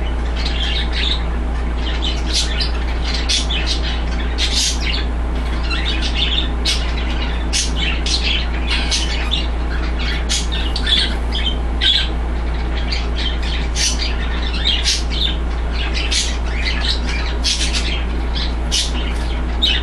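Small cage birds chirping and squawking in many short, high-pitched calls in quick succession, over a steady low hum.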